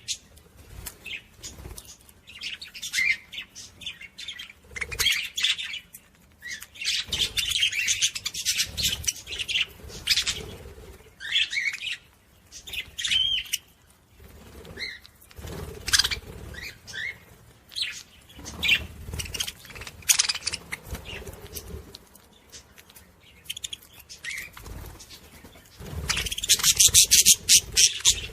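Small pet parrots chirping in short high calls, with bursts of wing flapping, the loudest flapping near the end.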